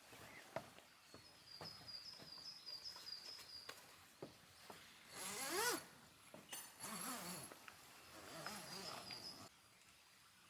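Faint forest birdsong: a bird repeats a quick high note several times over a couple of seconds, among scattered light clicks and taps. About five seconds in comes a louder rising call, the loudest thing here, followed by lower wavering calls.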